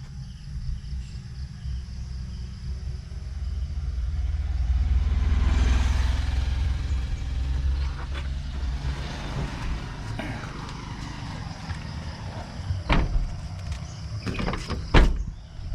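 A motor vehicle passes by, swelling to its loudest about six seconds in over a steady low rumble, then fading. A few sharp knocks follow near the end.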